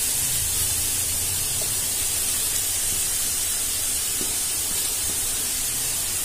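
Grated carrots sizzling steadily in ghee in a non-stick pan as they are sautéed.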